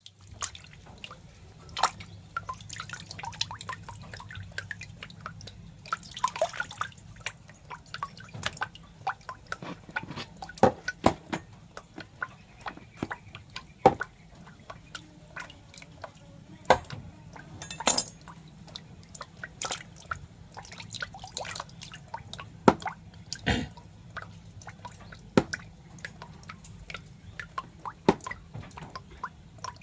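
Irregular wet clicks and drips, many faint and a few much louder, over a faint steady low hum.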